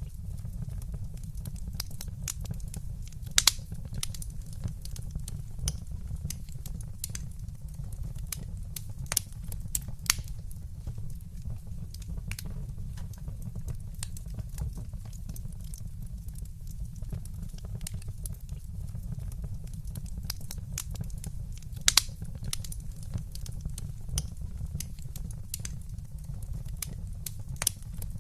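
Fire in a fireplace crackling, with scattered sharp pops over a steady low rumble; the loudest pops come a few seconds in and again about three quarters of the way through.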